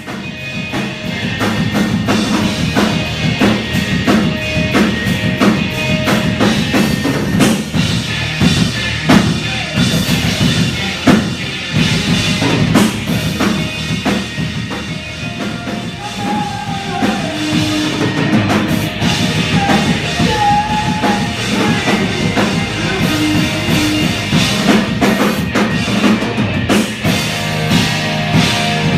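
A live rock band playing loud: a drum kit hitting hard and steadily under guitar and bass.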